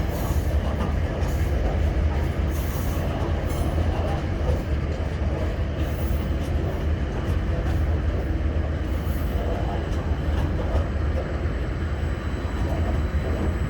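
Coal train rolling past, a steady low rumble from its wheels and wagons on the track.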